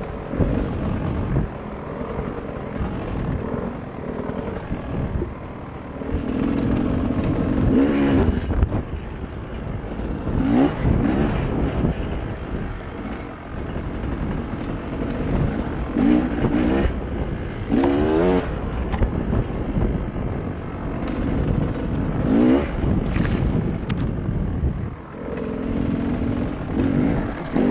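Dirt bike engine running under way on a trail ride, its revs rising in several short surges as it accelerates again and again.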